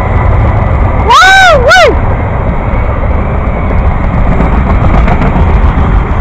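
CSX freight train's refrigerated boxcars rolling past close by, with a steady, loud rumble of wheels on rail. About a second in, a brief high call rises and falls twice in pitch over the rumble.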